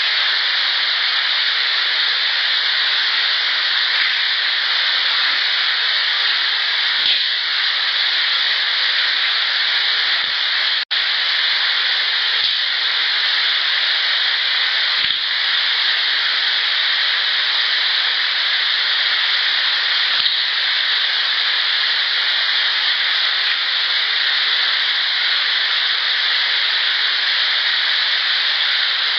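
Steady loud hiss of a field recording played back with the gain turned up. A handful of faint sharp clacks, about six, sound through it, which the recordist presents as rock clacks. The sound drops out briefly about eleven seconds in, at a cut between clips.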